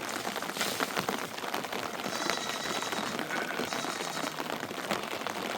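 Rain pattering steadily, a dense hiss of countless small drop impacts.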